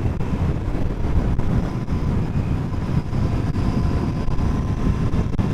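Royal Enfield Continental GT 650 being ridden at speed: a steady rush of wind over the microphone mixed with engine and road noise.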